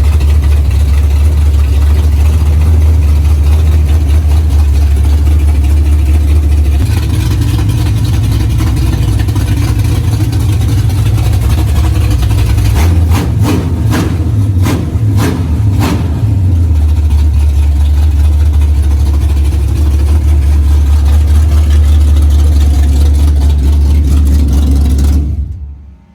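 Dodge 440 big-block V8 running loud and steady just after a full rebuild with new heads. Its speed rises for a few seconds about seven seconds in, a handful of sharp pops come around the middle, and it settles back to idle before stopping near the end.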